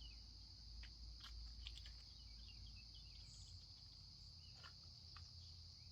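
Faint, steady chorus of crickets, a continuous high-pitched hum, with a few soft clicks and faint chirps over it.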